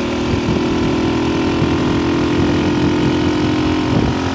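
A 1964 Honda C200's small single-cylinder four-stroke engine running at a steady speed under way, its pitch holding even, with wind hiss on the microphone.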